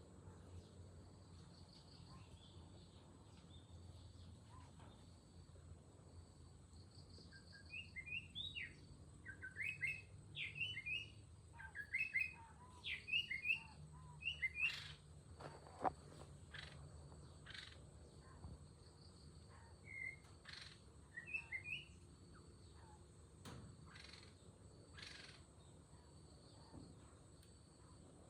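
Bird chirping in quick clusters of short, high notes, faint against a steady rural background with a high insect-like drone. A few sharp clicks in the second half.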